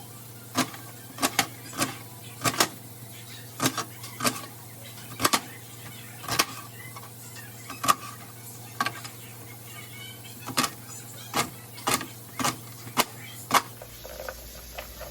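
Knife slicing an onion on a cutting board: a string of sharp, irregular chops, about one to two a second, which stop near the end.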